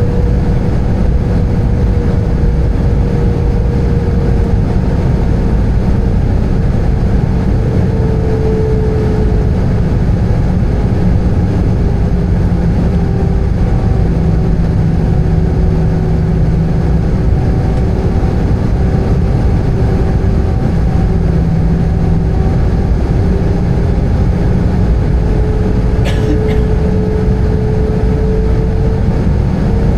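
Airbus A320 cabin noise from a window seat: a steady loud roar of engines and airflow. A whining engine tone slowly sinks in pitch and then climbs back near the end as the thrust changes. There is a brief faint click about 26 seconds in.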